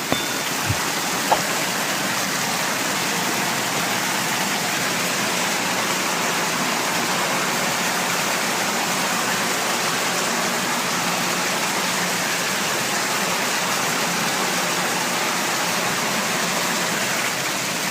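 Water spraying steadily out of a pipe burst by high water pressure, with a couple of small knocks about a second in.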